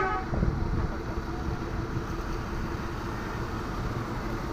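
A horn blast cuts off right at the start, then a truck's engine runs with a steady low rumble amid traffic noise.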